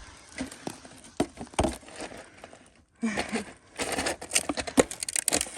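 Ice being broken and handled at a frozen water tap: sharp cracks and clinks, a few scattered knocks at first, then a dense run of crackling and clinking from about three seconds in.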